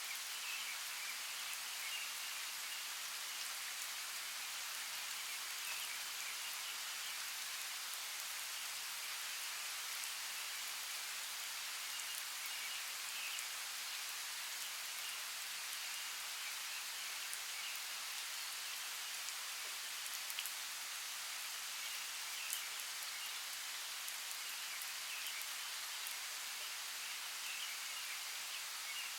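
Steady rainforest rain, an even hiss of falling rain with scattered drop ticks, and faint chirping calls coming and going in the background.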